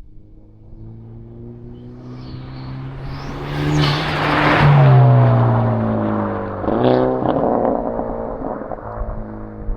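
Car engine accelerating hard, its pitch climbing for several seconds, then dropping at a gear change about seven seconds in before rising again.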